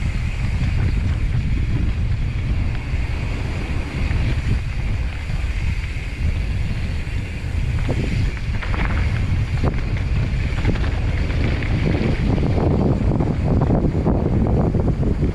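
Wind buffeting the microphone and tyres rolling over a dirt trail as a mountain bike descends at speed, with scattered rattles and knocks from the bike over rough ground, coming more often near the end.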